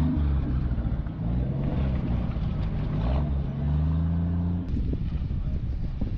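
Car engine running with a low, steady note that rises slightly about three seconds in, dropping away a second and a half later to a rougher rumble.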